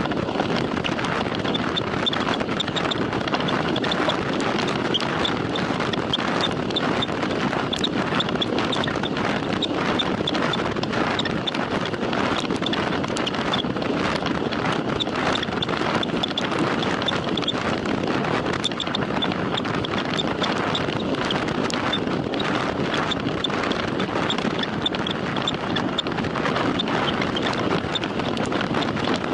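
Steady wind and road noise from a moving road bicycle during a time trial, with faint irregular ticks throughout.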